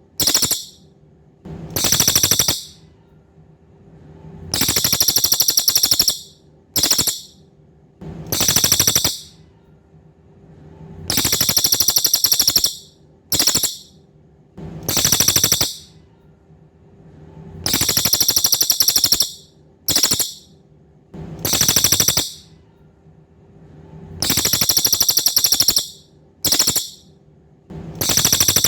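A cililin songbird singing high, buzzy, rapid trills in a repeating phrase: a long trill of about one and a half seconds, a short burst, then a medium trill, with short pauses between. The phrase comes round about every six and a half seconds. A faint steady low hum runs underneath.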